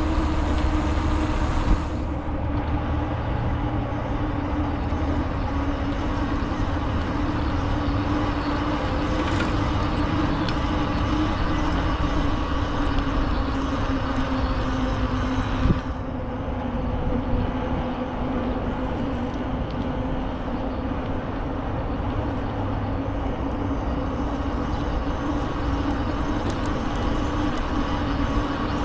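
Bicycle ride noise: steady tyre hum with low wind rumble, a faint tone in it drifting slowly in pitch as the speed changes. Two sharp clicks, about two seconds in and again about halfway.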